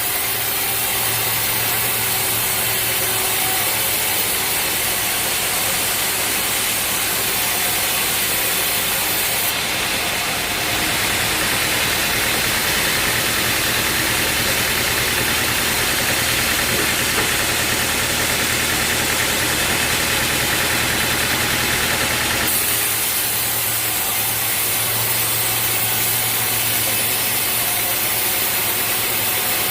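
Sawmill engine running steadily with a low hum. From about ten seconds in to about twenty-two seconds a stronger hiss rises over it, then drops back.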